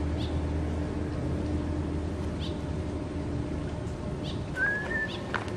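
Outdoor garden ambience: a steady low hum with a few short, high bird chirps, and a brief whistled bird note about four and a half seconds in.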